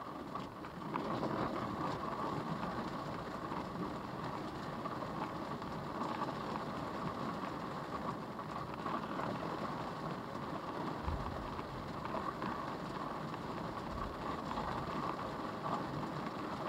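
Heavy storm rain and wind beating on a car, heard from inside the car as a steady rushing hiss that grows louder about a second in. Two brief low thumps come through later.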